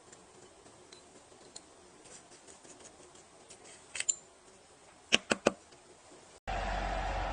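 Light plastic clicks and taps from handling a small folding USB desk fan, with three sharp clicks a little after five seconds. About six and a half seconds in, the sound changes abruptly to a loud steady whirring noise with a steady hum.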